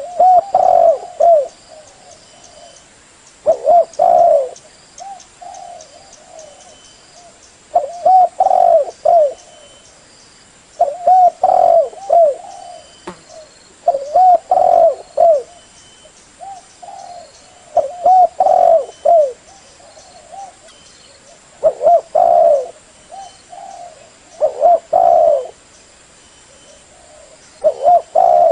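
Spotted dove cooing: a repeated phrase of several coos that comes about every three and a half seconds, nine times, with softer notes between the phrases.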